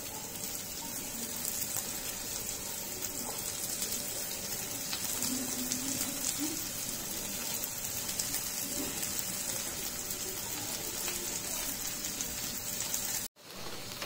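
Boiled kidney beans sizzling gently in oil with fried onions in a non-stick kadhai as they are dropped in and stirred with a wooden spatula: a steady soft hiss with faint light taps.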